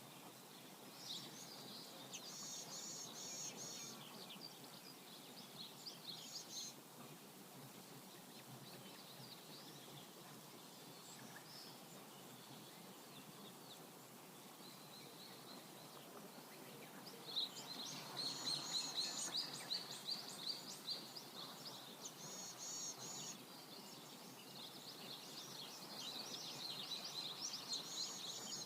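Songbirds chirping in short repeated phrases over the faint, steady rush of a river. The birdsong grows busier about two-thirds of the way through and again near the end.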